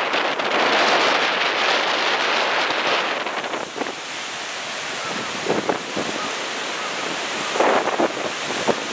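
Heavy storm surf breaking and washing up the beach after a typhoon, with wind buffeting the microphone. The wash is loudest for the first three seconds or so, then eases, with short gusts of wind on the microphone later on.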